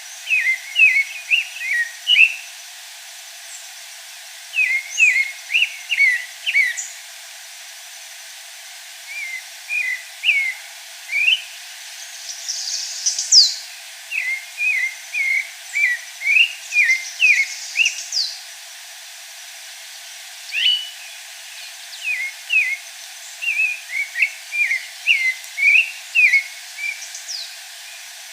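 Pale-breasted thrush singing: short phrases of quick whistled notes, each phrase a second or two long, separated by brief pauses, with a few higher, thinner notes now and then.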